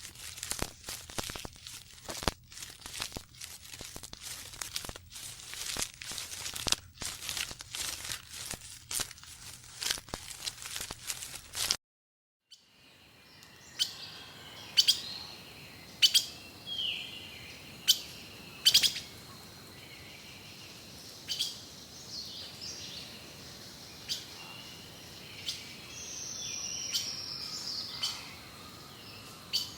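For about the first twelve seconds, a dense run of rapid clicks and crackles. Then, after a brief break, birds calling: short sharp chirps spaced a second or two apart and a falling whistle near the end.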